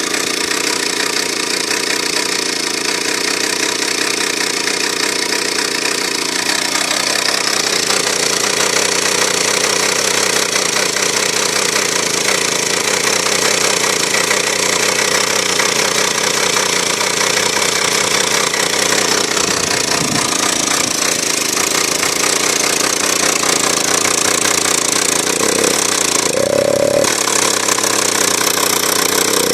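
Druzhba-4 two-stroke chainsaw engine, fitted with a petrol-generator cylinder head for high compression, running continuously. Its speed picks up a few seconds in and holds, with brief revs up and back down near the end.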